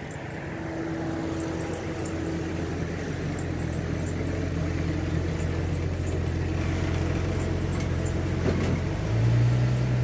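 Ford Mustang's engine running as the car is driven slowly up and pulled in alongside, growing louder as it comes near. About nine seconds in, the engine note steps up and gets louder.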